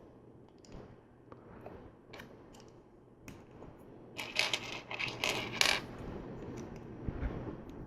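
Plastic LEGO pieces clicking and clattering as they are handled and pressed together, with scattered single clicks and a busier spell of rattling about four seconds in.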